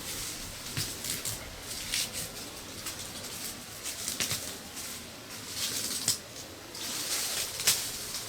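Irregular rustling with scattered light crackles and knocks, over a steady hiss; the sharpest knocks come about six seconds in and near the end.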